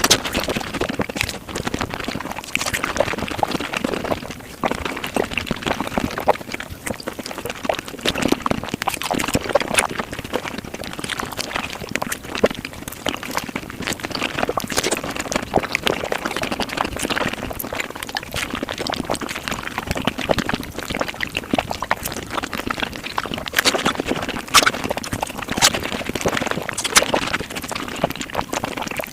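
Close-up mukbang eating sounds sped up to five times normal speed: a fast, dense, unbroken run of crackly clicks and mouth noises.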